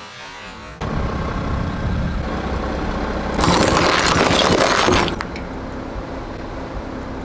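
A car rolling forward and its tyre crushing an object: a loud crunching, cracking break lasting about a second and a half, midway through, over the steadier sound of the car moving.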